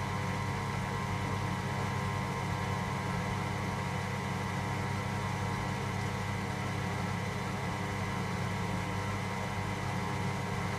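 Electra AWF683 washing machine's drain pump running with a steady, even hum as the machine pumps out water.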